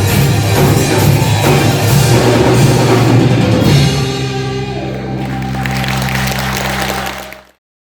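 Rock band with drum kit playing live. About four seconds in the band stops on a held chord that rings on steadily, then the sound cuts off abruptly near the end.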